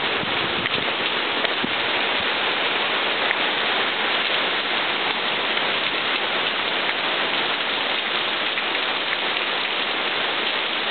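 Rain from a severe storm falling steadily, an even hiss of drops with scattered small ticks.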